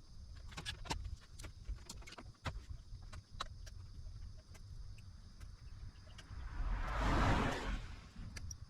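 Scattered small clicks and taps, with one short hiss that swells and fades about seven seconds in.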